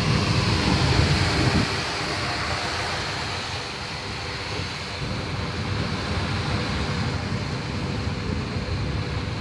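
Wind buffeting the microphone over the steady hum of a tour boat's engine, with sea noise around the hull. The buffeting is heaviest in the first second and a half.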